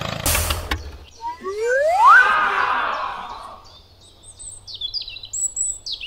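A short burst of noise, then a loud tone sliding upward about a second and a half in, followed by several quick high bird chirps near the end.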